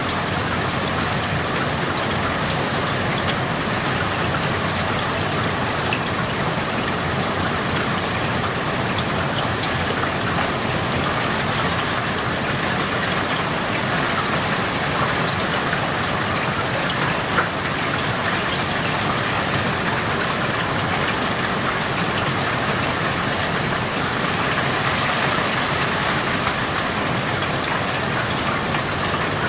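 Steady rain falling and pattering on surfaces, heard through an open window, with many small drop ticks and one slightly louder drop about 17 seconds in.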